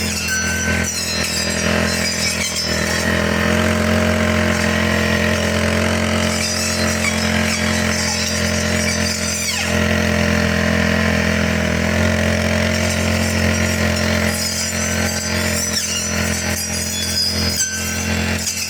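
Four-stroke brush cutter engine running steadily at working speed while cutting grass.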